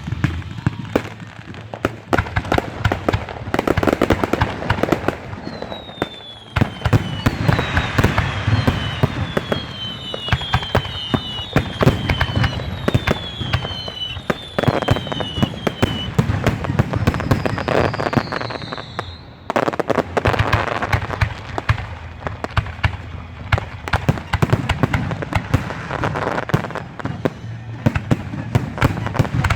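Aerial fireworks going off in rapid, dense bangs and crackles. A run of short falling whistles sounds in the middle, then one longer falling whistle.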